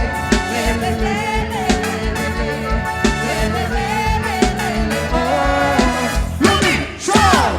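Live São João festival band music for a quadrilha junina dance: a steady drum beat under a winding melody, with a quick falling swoop about seven seconds in.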